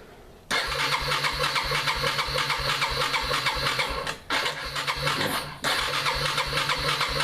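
Electric starter cranking the cold 229 cc single-cylinder engine of a 2001 Yamaha Bear Tracker ATV, turning over with an even pulsing beat but not firing, with no choke on in near-freezing weather. It cranks in long bursts, with a short pause a little past four seconds in.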